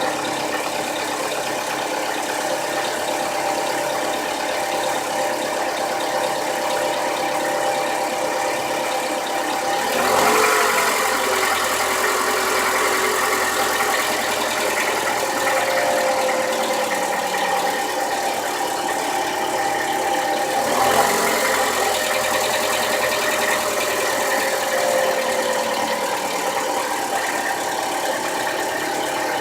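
2015 Toyota Camry engine idling with a light knock, revved twice (about ten seconds in and again about twenty-one seconds in), each time rising in pitch and easing back down to idle. The knock keeps time with the revs, which the owner takes for cam gear rattle.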